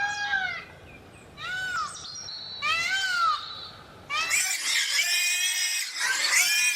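High-pitched animal calls: three short arching squeals, each rising then falling in pitch, about a second and a half apart, then a dense run of overlapping chirps and squeals.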